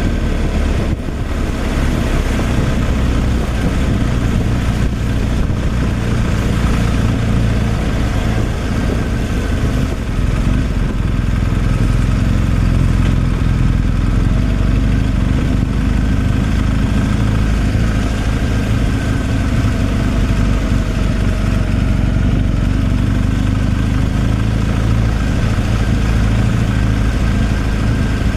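Truck engine running steadily while driving, with a constant low drone and road noise over it.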